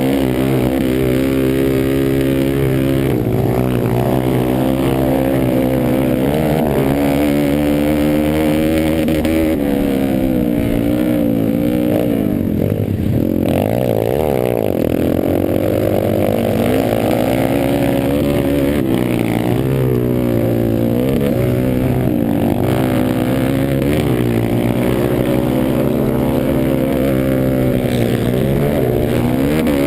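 Pit bike engine racing around a motocross track, its pitch rising and falling again and again as the throttle is opened and closed through the corners and straights.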